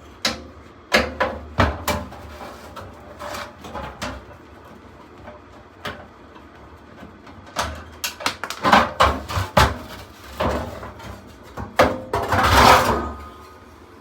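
Parts of an HVAC blower assembly being handled and taken apart: irregular clunks and knocks, a cluster of them about eight to ten seconds in, and a louder scrape near the end.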